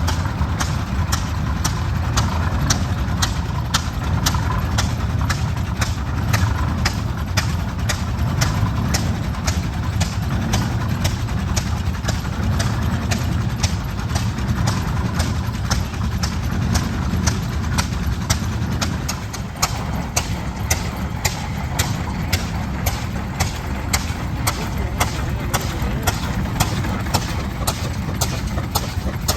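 Large antique tractor engine running slowly, with a steady, evenly spaced exhaust pop about three times a second over a low rumble.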